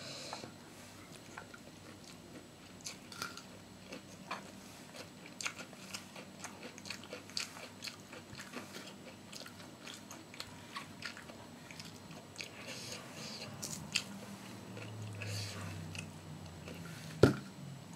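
Close-miked mukbang eating: a person biting and chewing crisp food, with irregular small crunches and crackles a second or so apart. One louder sharp click comes near the end.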